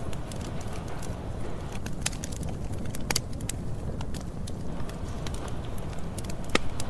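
Campfire burning: irregular sharp crackles and pops of burning wood over a low, steady rumble of the flames, with one louder pop near the end.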